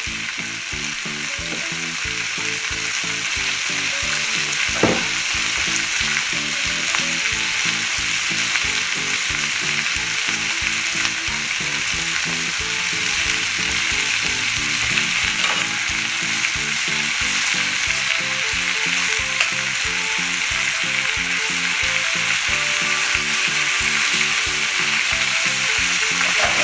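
Pork belly and cabbage sizzling steadily in a frying pan over high heat, left undisturbed so the cabbage browns, with a few sharp clicks along the way.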